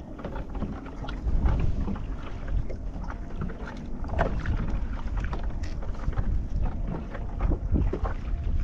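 Wind buffeting the microphone on a kayak, a rough rumble, with scattered small knocks and water splashes.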